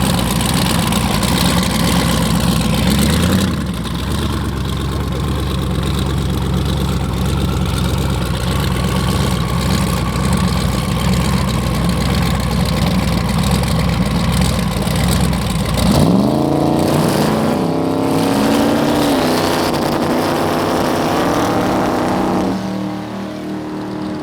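Race car engines running loudly at the drag strip starting line, then about two-thirds of the way through a car launches and accelerates hard, its pitch climbing and dropping back at each of several gear changes.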